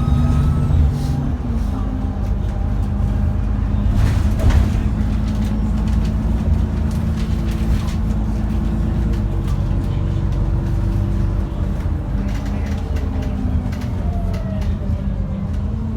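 Cummins ISBe 6.7-litre diesel of an ADL Enviro400 double-decker bus running under way, with its turbo whine. There is a short burst of noise about four seconds in, and the whine falls in pitch near the end as the engine eases off.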